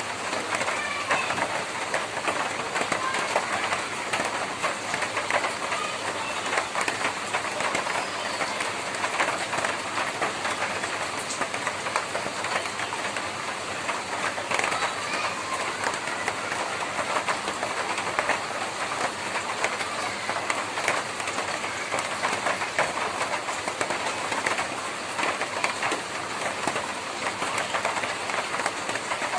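Steady heavy rain drumming on a tin roof: a dense, even patter of countless small drop hits.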